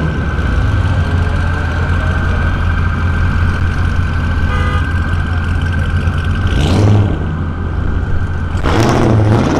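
Car engine running with a steady low drone, with two brief swells of louder noise, one about seven seconds in and one near the end.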